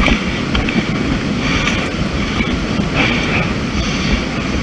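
Wind buffeting a handheld camera's microphone on an exposed climb, with a hiker's hard breathing swelling about every second and a half.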